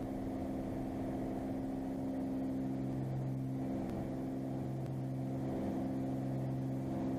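Cirrus SR22's six-cylinder piston engine and propeller at climb power just after takeoff, a steady drone with an even pitch.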